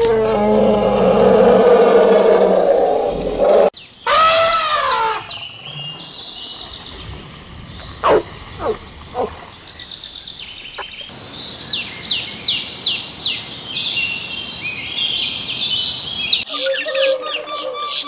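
A string of cut-together wild animal and bird sounds. A drawn-out pitched call fills the first few seconds, then a rising-and-falling cry about four seconds in. After that come falling whistled bird calls, a long run of rapid high chirps, and a repeated call near the end.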